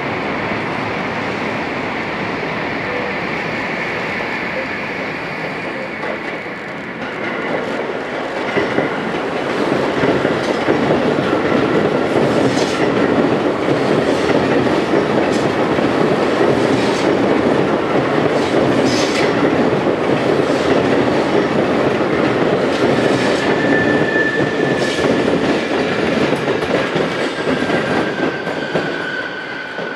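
Sotetsu 21000-series electric train running past. From about eight seconds in, its wheels clatter over rail joints and points, and near the end there is a drawn-out, slightly falling wheel squeal.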